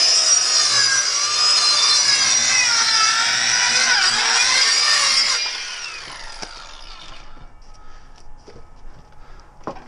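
Ryobi CSB125 13-amp corded circular saw running and cutting wood for about five seconds, its whine dipping in pitch under load. The blade then winds down, falling in pitch and fading over about two seconds.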